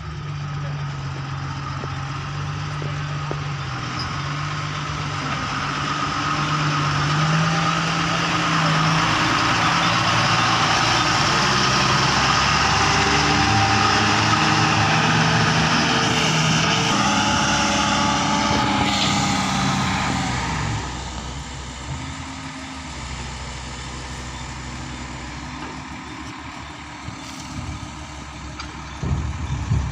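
Heavy diesel engines of an excavator loading a tipper truck, running under load. The engine noise builds for several seconds, stays high, then falls back to a lower, steadier level about twenty seconds in, with a few sharp knocks near the end.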